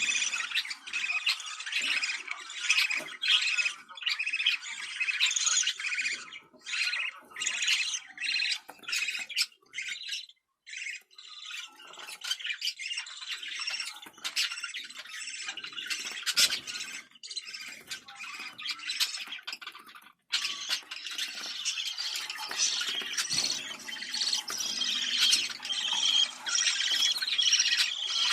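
Budgerigars chattering and warbling in a dense run of rapid chirps and squawks, broken by two short silent gaps, about ten and twenty seconds in.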